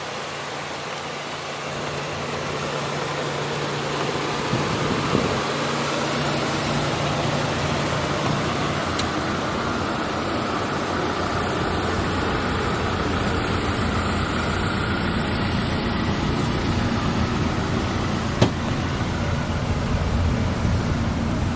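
A 2008 Ford Ranger pickup's engine idling steadily, growing slightly louder over the first few seconds, with a single sharp click near the end.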